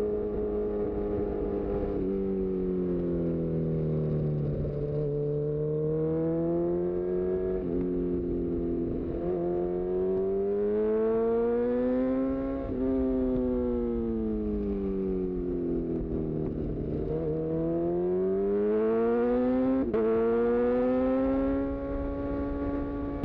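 2018 Honda CB1000R's inline-four engine through a full-system Black Widow exhaust, heard from the rider's seat: the revs fall away and climb back several times as the bike slows and accelerates, with a few abrupt steps in the note where gears change on the quickshifter.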